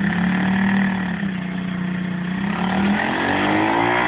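Stomp Juicebox 110cc pit bike's single-cylinder four-stroke engine revving under way. It holds a steady pitch, then rises in pitch from about two and a half seconds in as the bike accelerates.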